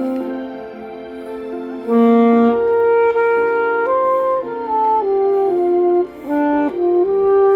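Saxophone playing a slow melody of long held notes, softer for the first couple of seconds and then louder.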